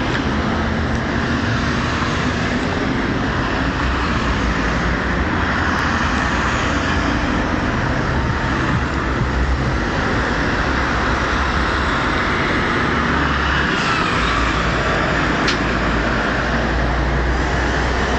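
Steady road noise of motorway traffic: an even rush of tyres and engines with a low rumble that grows stronger for the last few seconds.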